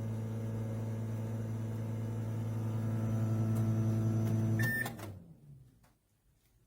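Countertop microwave oven running with a steady electrical hum. About three-quarters of the way through it beeps once and the hum dies away, the end of a heating cycle.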